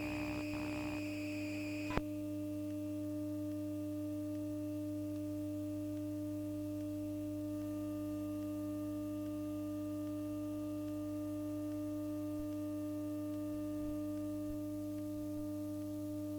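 Electromagnetic noise from a Bombardier Flexity Outlook tram's electrical equipment picked up on a radio: a steady hum of several fixed tones. About two seconds in, a click cuts off a warbling higher-pitched pattern, leaving only the steady tones.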